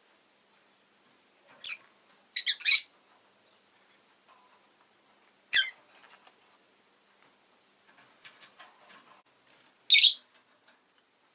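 Rosy-faced lovebird giving short, shrill chirps in scattered bursts: a single call, a quick run of three, another single, and a loud call near the end.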